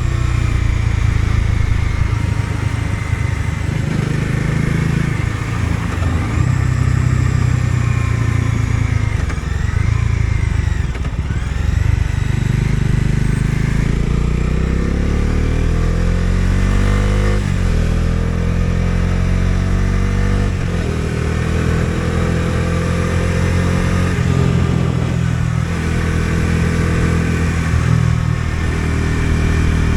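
Bajaj Dominar 250's single-cylinder engine running under way. Around the middle it climbs steadily in pitch as the bike accelerates, with two brief dips for gear changes, then it holds a steady cruise.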